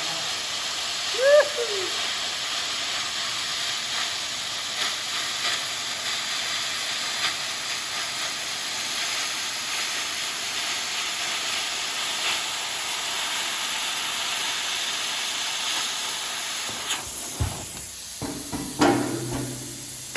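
Plasma cutter hissing steadily as it cuts through steel sheet. The hiss stops about three seconds before the end, followed by a few knocks. A brief squeak sounds about a second in.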